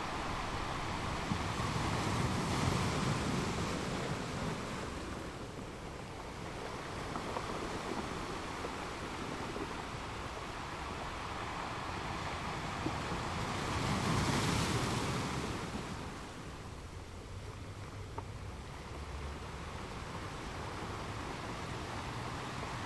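Atlantic surf washing onto the beach, a steady wash that swells louder twice, once a few seconds in and again about halfway through, as waves break and run up the sand.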